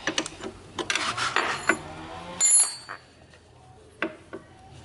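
A string of clicks and clinks, with one short metallic ringing clink about two and a half seconds in, the loudest sound here.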